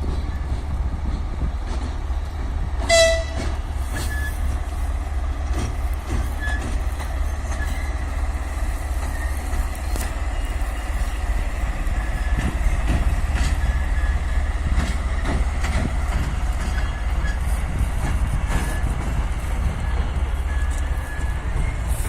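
A freight train rolling by, with scattered clicks of wheel clatter and faint short squeals. A brief locomotive horn toot sounds about three seconds in.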